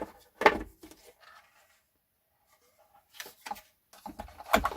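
Clicks and knocks of a radio's opened case and parts being handled and set down during disassembly: a sharp knock about half a second in, a quiet gap, then a cluster of clicks near the end.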